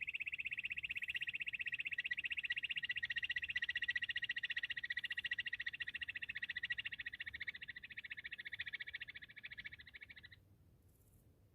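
Bush quail call: a rapid, even trill of pulses, high-pitched and held for about ten seconds, then cut off suddenly near the end.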